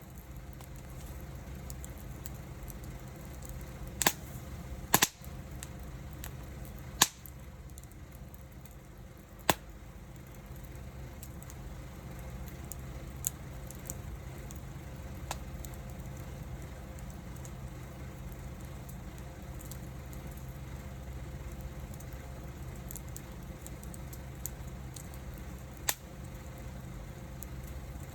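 Wood fire crackling, with scattered sharp pops from the burning wood over a steady low background; the loudest is a quick double pop about five seconds in.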